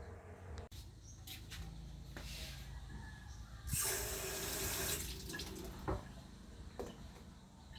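Water running for about a second and a half in the middle, over a low steady hum, with a few small knocks before and after.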